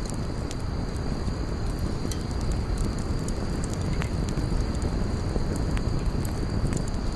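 Campfire burning: a steady low rush of flame with frequent small crackles and pops from the wood, a few sharper snaps standing out.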